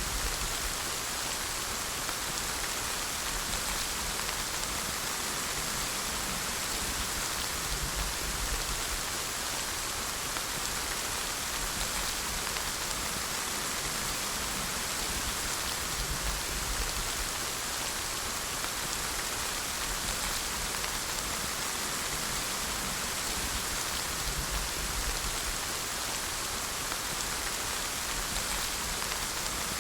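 Steady, continuous rainfall: an even hiss of rain falling on a surface, unchanging in strength.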